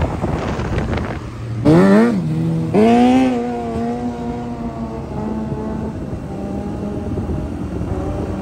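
Motorcycle engine revving up hard, dropping briefly at a gear change, then revving up again and holding a steady high note as the bike accelerates and cruises. Wind rushes over the microphone at the start.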